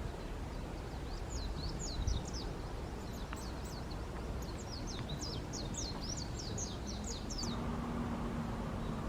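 A small bird chirping a quick run of high, rapid notes for several seconds over a steady low outdoor rumble. A steady low hum starts near the end.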